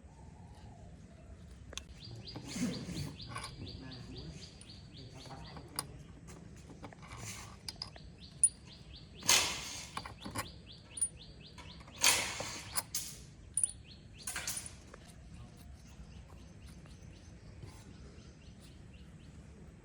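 A bird chirping in a fast, even trill that stops and starts, with a few short, loud hissing or scraping bursts in the middle.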